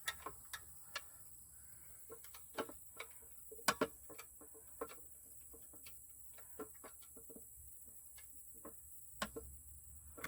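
Scattered light clicks and taps of hand tools and metal parts being handled while a chicken plucker is bolted together, a few louder clinks about three to four seconds in.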